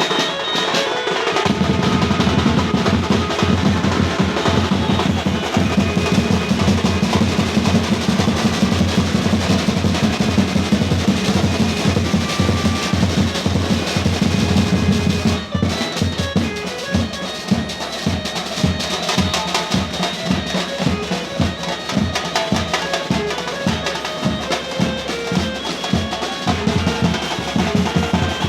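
Music with heavy drumming: a fast, dense drum roll, changing about halfway through to a steady beat of roughly two strokes a second.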